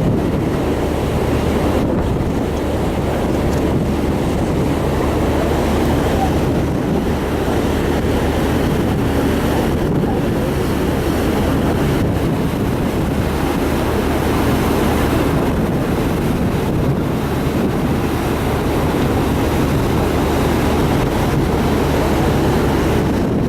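Sea waves and foam rushing past a ferry's hull, over the steady low hum of the ship's engines, with wind buffeting the microphone.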